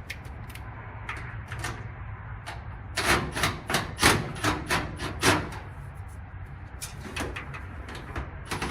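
Knocks and clicks of dryer parts being handled and fitted during reassembly, with a quick run of about eight sharp knocks near the middle, over a low steady hum.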